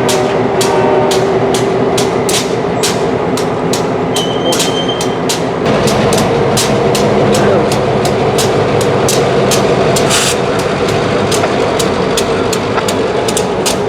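Freight train rolling through the rail yard: a steady rumble with a regular clicking of wheels over rail joints, about three clicks a second. A brief high tone sounds about four seconds in.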